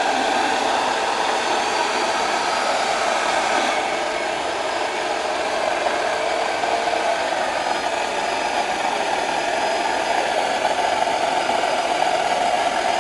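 Small homemade turbojet engine running steadily: a continuous loud rushing roar with faint steady tones above it.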